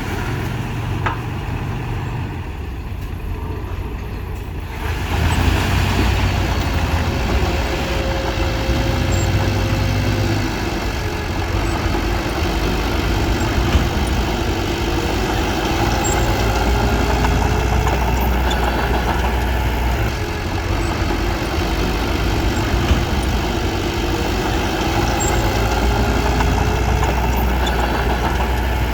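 Diesel engine of heavy earthmoving machinery running steadily, with a low rumble that gets louder about five seconds in and then holds.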